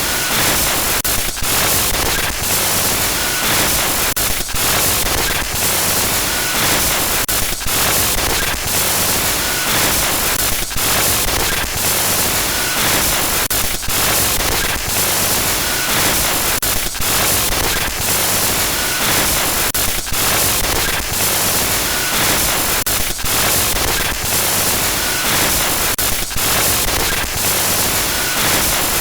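Loud static hiss of a glitch-noise sound effect, broken by brief dropouts about once a second, with an occasional short faint beep.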